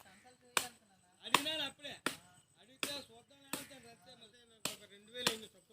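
A blade chopping into thorny plant stems: about seven sharp hacking strikes, roughly one every three quarters of a second.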